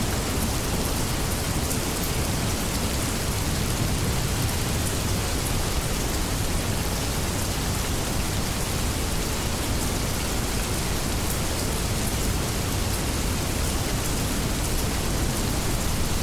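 Steady heavy rain: a dense, even hiss with scattered fine drop ticks.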